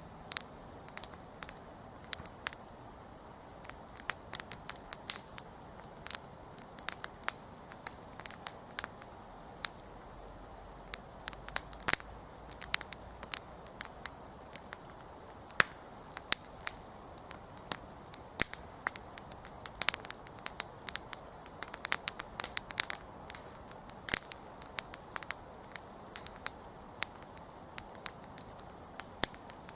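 Wood campfire burning, with frequent irregular sharp crackles and pops over a steady low hiss of the flames.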